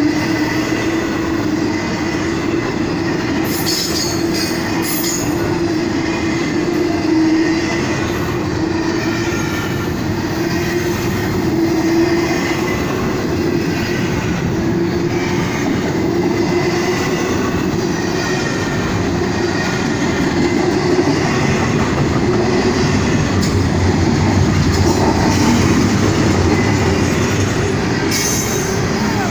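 Norfolk Southern intermodal freight train rolling past: a continuous rumble of cars' wheels on the rails, with a thin steady whine over it.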